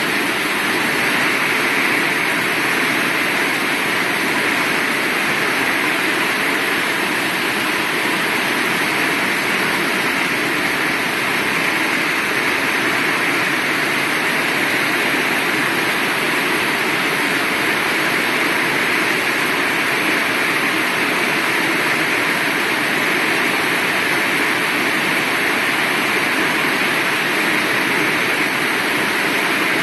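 Heavy rain falling steadily, an even downpour with no thunder claps.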